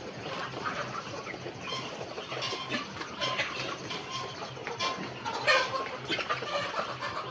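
Chickens clucking, many short overlapping calls from a flock.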